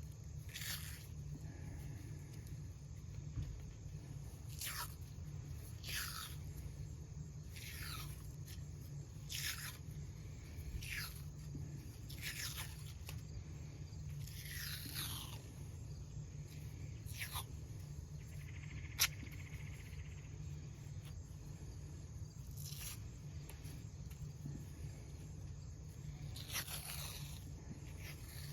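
Tape being pulled off the roll in short rasping strips as it is wrapped around a fiberglass rake handle, about a dozen pulls, each falling in pitch, with one sharp click about two-thirds of the way through.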